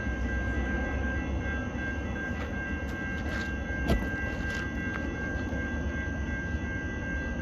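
Metra MP36PH-3C diesel-electric passenger locomotive running steadily with its commuter train, a low engine rumble under a steady high whine. A single sharp click comes about four seconds in.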